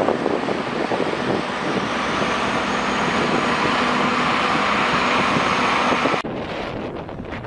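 A vehicle running: a steady rush of engine and road noise with a faint low hum. About six seconds in it cuts off suddenly to wind buffeting the microphone.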